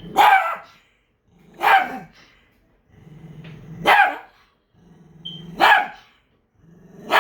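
Pet dog barking five times at a steady pace, about one bark every one and a half to two seconds, with a low growl between the later barks.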